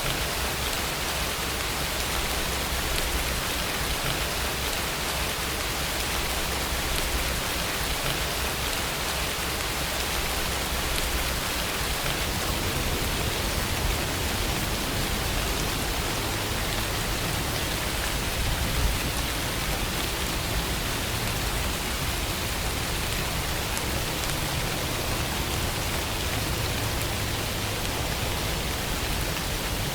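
Steady heavy rain, an even hiss of falling drops with a low rumble underneath.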